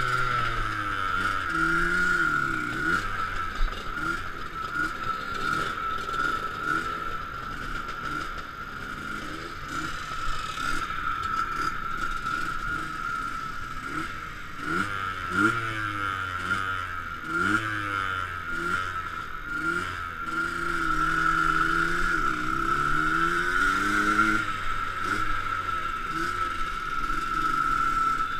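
Enduro motorcycle engines idling and being revved in repeated short blips, pitch rising and falling, over a steady high whine.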